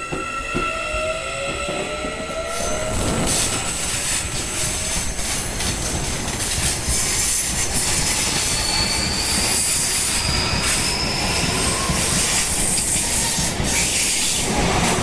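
Electric commuter train running close past on the station track: a rising motor whine over the first few seconds, then loud, steady wheel-on-rail noise. A brief high wheel squeal comes about two-thirds of the way through.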